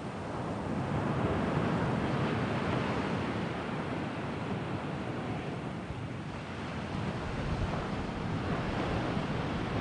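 Sea waves washing onto the shore, a steady rush of surf that swells about a second in and again near the end, with some wind on the microphone.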